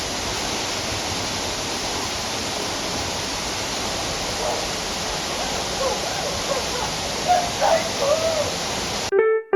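Steady rushing of a waterfall and heavy rain. The water sound cuts off suddenly near the end, and piano music starts.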